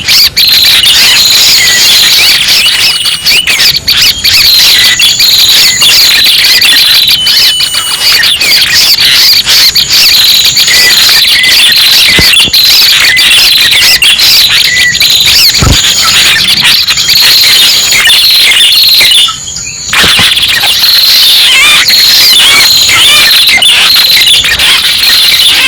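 Loud, dense chirping and trilling of prenjak (small prinia/tailorbird-type songbirds) played as a bird-trapping lure call. It is continuous, with one brief break about three-quarters of the way through.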